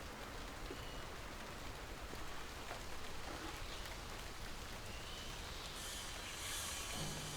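Steady outdoor background hiss, with no voices. Near the end a brighter high-pitched hiss rises, and a low steady hum starts.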